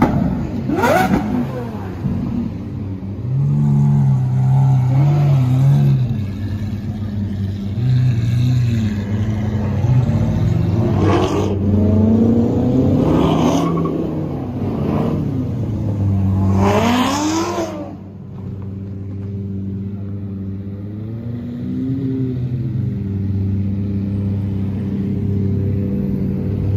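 Supercar engines idling, with several short revs that rise in pitch and fall back, spread across the stretch over a steady low idle.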